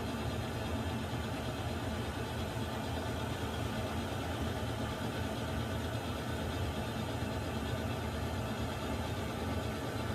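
Water heater running: a steady, even rushing drone, strongest in the low range, with a faint steady hum.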